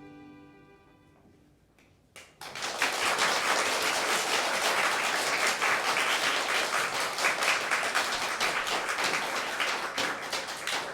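The last held chord of a chamber ensemble fades away, then an audience applauds, starting about two seconds in.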